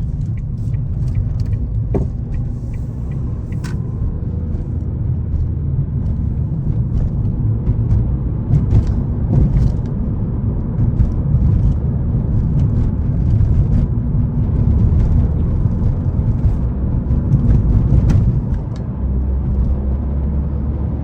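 2011 Ford Fiesta 1.6 Zetec S on the move, heard from inside the cabin: a steady low engine and road rumble, a little louder from about a third of the way in, with scattered light clicks and knocks.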